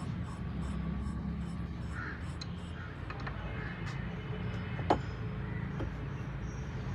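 Steady low workshop hum with a few light taps and one sharp metal clink that rings briefly about five seconds in: tools and metal parts being handled.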